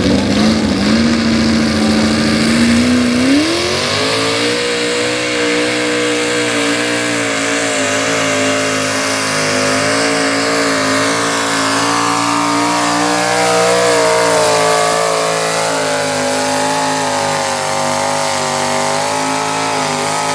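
Super stock two-wheel-drive pulling truck's engine running at high revs under load while pulling the sled. It revs up about three seconds in, holds a steady high pitch, and climbs again near the end.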